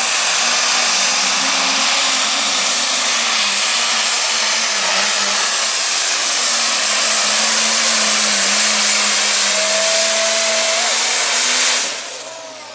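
Light Pro Stock pulling tractor's turbocharged diesel engine running steadily at high power, with a strong hiss over a wavering engine note; it fades away near the end.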